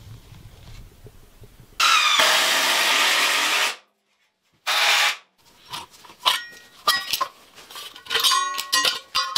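Renovation work sounds in quick cuts: a power tool runs loudly for about two seconds, then stops dead. A short burst, scattered knocks and clicks, and a run of short squeaks follow.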